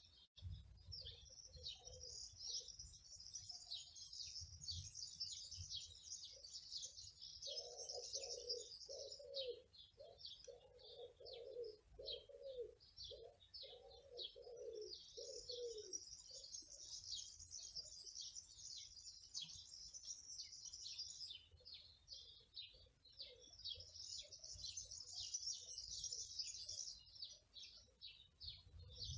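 Small songbirds chirping and trilling rapidly and continuously. A dove coos a run of low, evenly repeated notes from about eight to sixteen seconds in.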